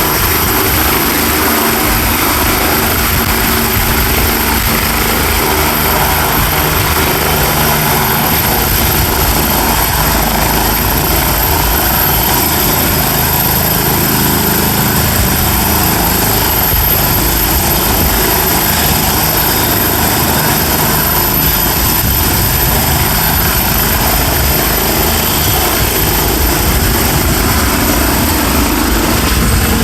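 Bell light turbine helicopter running steadily, its turbine and rotor making a continuous loud noise with a very high, steady whine on top.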